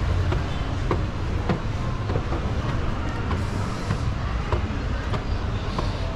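Busy market background noise: a steady low rumble and hiss with scattered light clicks and knocks.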